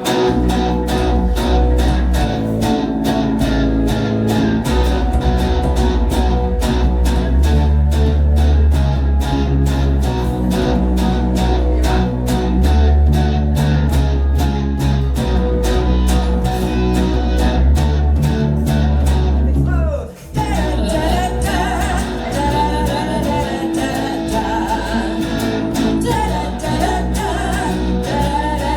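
Live rock band playing an instrumental intro with electric guitar, bass and a steady drum beat. The band drops out for a moment about two-thirds of the way through, then comes back in fuller.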